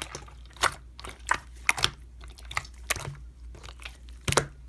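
Slime being pressed and squished by hand, giving irregular sharp clicks and crackly pops a few times a second.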